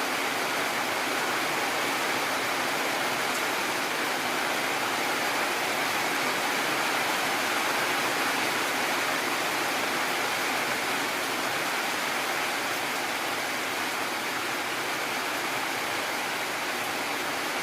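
Heavy rain falling in a steady downpour, an even hiss with no thunderclap.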